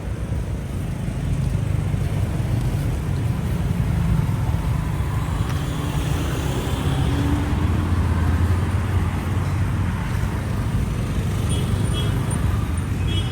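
Road traffic noise: a steady low hum of vehicle engines running, growing a little louder about halfway through, with a few faint light clinks near the end.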